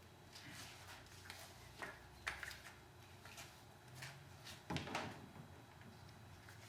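Faint scattered clicks, scrapes and rustles of kayak tie-down straps and buckles being handled while the kayak is strapped to the car roof. The loudest is a longer scrape about five seconds in.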